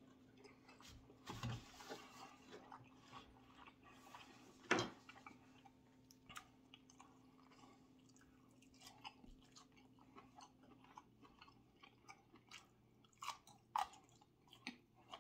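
Close-up chewing of grilled steak and asparagus: soft, wet smacks and clicks of the mouth at an uneven pace, with a couple of louder ones in the first five seconds.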